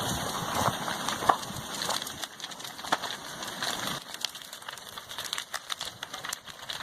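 Lava overrunning a house: dense crackling and snapping, many sharp cracks over a rushing hiss, with the low rumble falling away after about four seconds.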